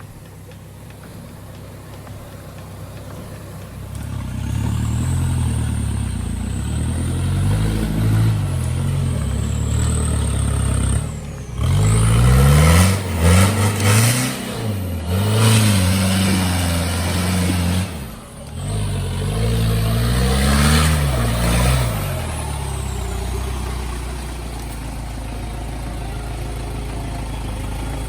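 Off-road vehicle engine revving hard in repeated surges, its pitch rising and falling under load, loudest twice in the middle, then settling into a steadier run near the end.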